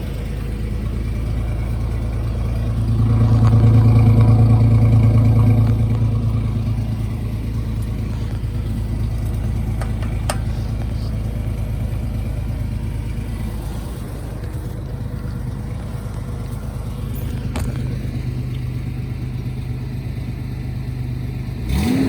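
Truck engine running through an 8-foot exhaust pipe extension: it swells louder for a few seconds about three seconds in, then settles back to a steady idle.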